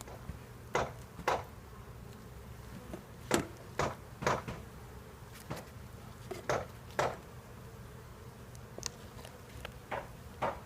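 Honeybees buzzing around an opened hive, with a dozen or so individual bees zipping past close to the microphone, each a brief loud buzz, over a low steady hum.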